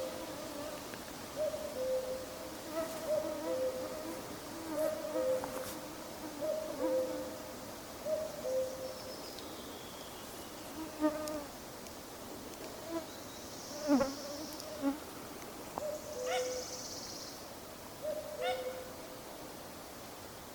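Common cuckoo calling its two-note falling 'cuck-oo', repeated many times in the first half, then falling silent and calling again twice near the end. Mosquitoes and other insects whine and buzz underneath, with a few other bird chirps.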